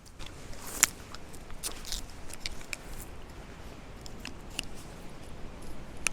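Close crackly rustling and irregular sharp clicks of tarp and camping gear being handled while the tarp is pitched, the sharpest click a little under a second in.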